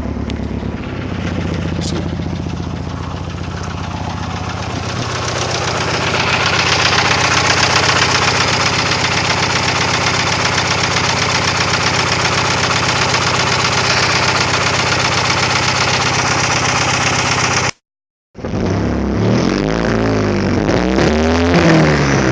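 1999 Mitsubishi Eclipse GST's 2.0-litre turbocharged four-cylinder idling roughly while down an injector: a cylinder misfires at idle. Near the end the sound cuts out for a moment and electronic music with sweeping pitches comes in.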